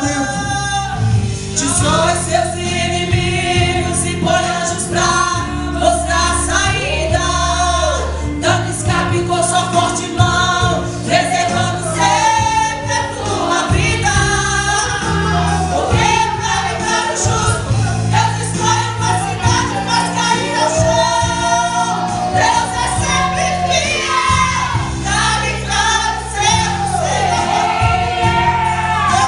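Portuguese gospel hymn played from a playback track: singing with a choir over instrumental accompaniment.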